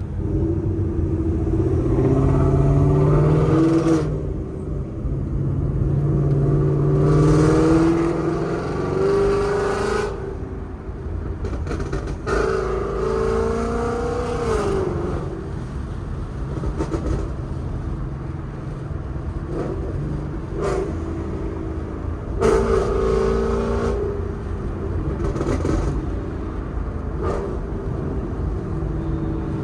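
Straight-piped Ford Mustang GT 5.0 V8 with long-tube headers, accelerating hard in several pulls, its exhaust note rising in pitch and falling back between them. Short sharp cracks come through between the pulls.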